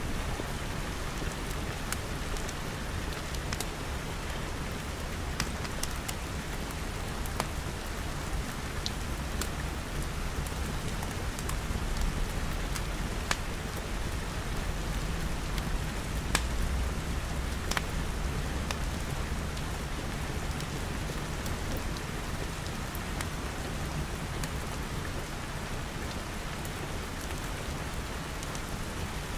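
Steady rain pattering on glass over a low rumble, with scattered sharp crackles and pops from a wood fire.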